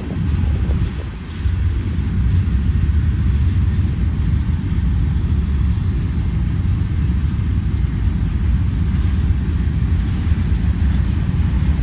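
Freight cars of a manifest train rolling past, a steady low rumble of steel wheels on the rails.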